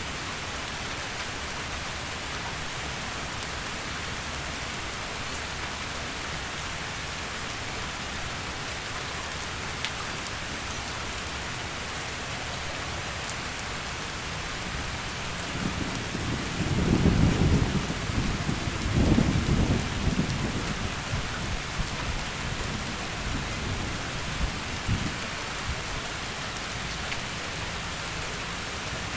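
Heavy rain falling steadily. About halfway through, a low roll of thunder builds, peaks twice, and dies away over roughly ten seconds.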